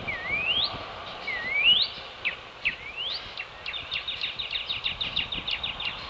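Songbirds singing at dawn: three clear rising whistles, each dipping then sweeping up over about half a second, followed by a rapid trill of short falling notes, about nine a second, over a steady background hiss.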